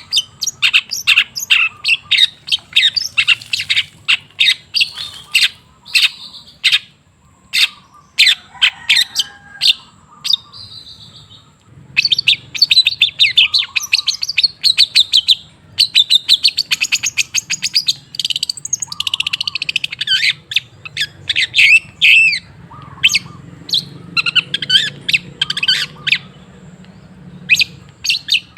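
Long-tailed shrike (cendet) singing: fast runs of harsh, chattering notes, with a short break partway through.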